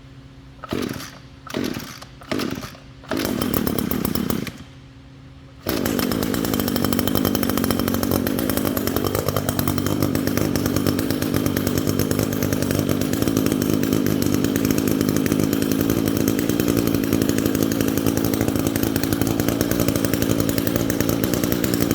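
Echo GT225 string trimmer's small two-stroke engine pull-started: three short tugs on the recoil starter cord, then a brief run of about a second that dies. About five and a half seconds in it catches and runs steadily at idle, warming up, on a 100-to-1 two-stroke fuel mix with its original plug and filter.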